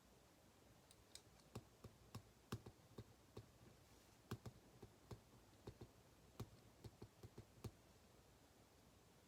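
A run of faint, irregular clicks from desk work, about two or three a second, stopping near the end.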